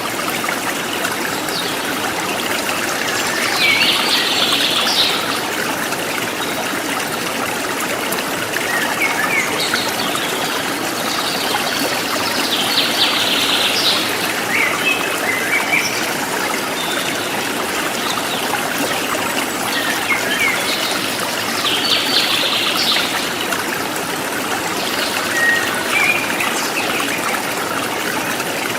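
River or stream water flowing steadily over rocks. A bird's high chirping calls come three times, about nine seconds apart.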